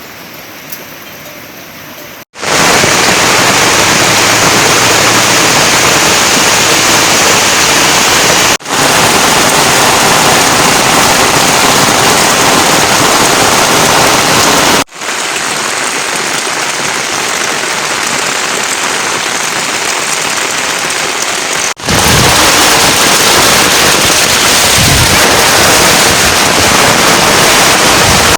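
Heavy rain pouring down in a steady, loud hiss. It starts quieter for the first couple of seconds, then comes in much louder, breaking off for an instant four times.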